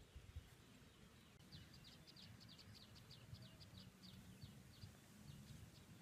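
Faint bird calling: a quick run of short, high chirps starting about a second and a half in, thinning out toward the end, over a faint low rumble.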